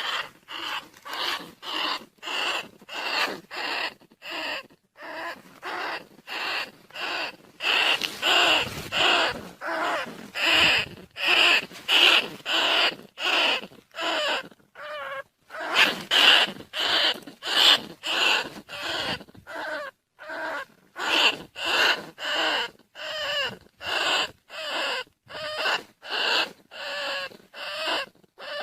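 Rat squeals played as a lure call for rice-field rats and bandicoot rats: short, shrill squeaking bursts repeating about one and a half to two times a second, with a few brief pauses.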